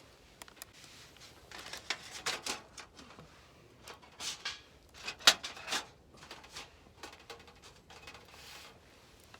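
Irregular rustling, scraping and light knocks, as of things being handled and set down, with a sharp click or knock about five seconds in.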